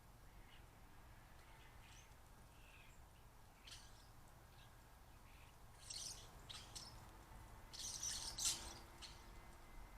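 Small birds calling, faint: scattered short, high chirps and scratchy notes, sparse at first, then coming thicker in the second half, with the loudest note about eight and a half seconds in.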